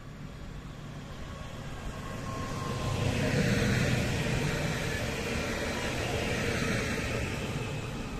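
Electric multiple unit passing close by, its wheels rumbling on the rails. It grows louder as it approaches, is loudest about three to four seconds in with a higher whine over the rumble, then fades as it moves away.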